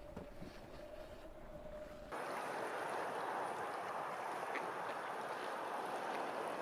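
A faint, steady, held tone, the tail of a wolf's howl, cuts off about two seconds in. It gives way to a steady rush of waves lapping on open water.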